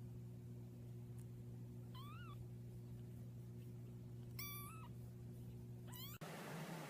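Cat meowing three times, short calls that rise and fall in pitch, about two seconds apart, over a steady low hum.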